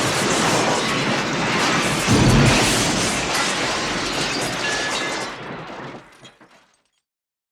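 A metal and glass crash: a sustained clatter of wreckage with a heavy low impact about two seconds in. A few ringing, glassy tinkles come through before it fades out about six seconds in.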